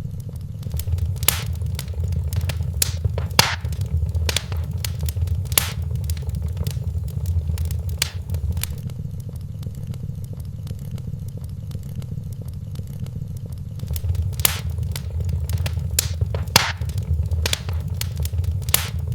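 Wood fire burning in a fireplace: a steady low rumble of the flames with irregular sharp crackles and pops, some stretches busier than others.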